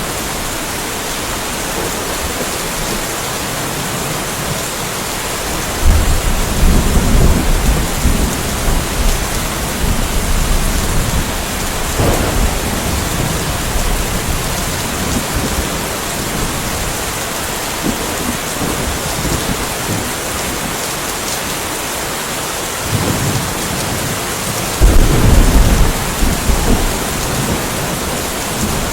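Steady rain falling, with thunder rumbling twice: a low rumble about six seconds in that fades over several seconds, and a louder one near the end.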